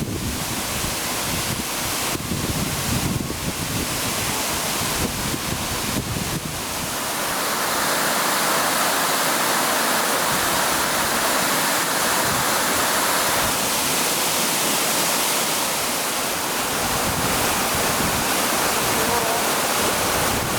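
Waterfall: a steady, even rush of falling water. A deeper rumble lies under it for the first seven seconds or so, then the sound settles into a brighter, constant hiss-like rush.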